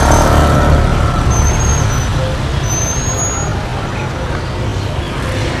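Street traffic: a motor vehicle running close by with a steady low rumble. A couple of thin, high bird chirps sound over it about a second and a half and three seconds in.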